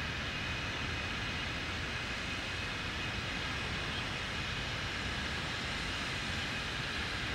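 Norfolk Southern freight train's cars rolling past as the end of the train goes by: a steady noise of steel wheels on rail.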